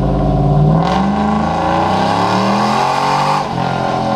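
Turbo-diesel pickup truck engine revving hard under load on a chassis dyno, climbing steadily in pitch with a hiss over it, then dropping back sharply about three and a half seconds in, as at an upshift during the pull.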